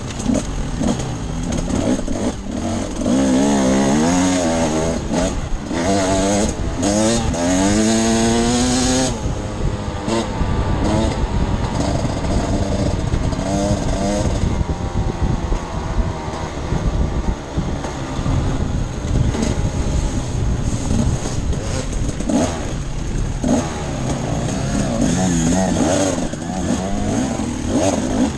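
Off-road dirt bike engine under way, revving up repeatedly through the gears for several seconds and again near the end, with rumble and wind noise throughout.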